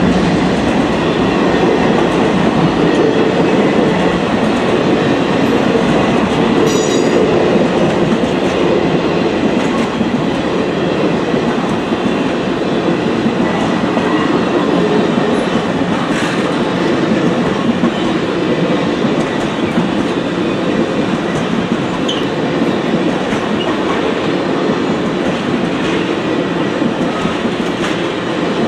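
Circus-train passenger cars rolling past at speed: a loud, steady rumble of steel wheels on the rails.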